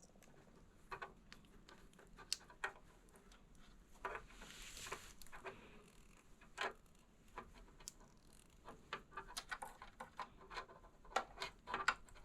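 Faint, scattered small clicks and taps from hand work on wires and small plastic parts, with a brief rustle about four seconds in and quicker clicks near the end.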